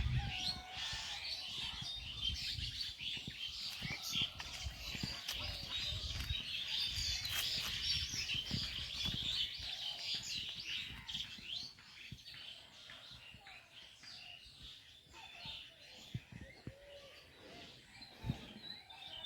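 Many small birds chirping together in a dense, busy chorus, loudest for the first dozen seconds and then thinning out.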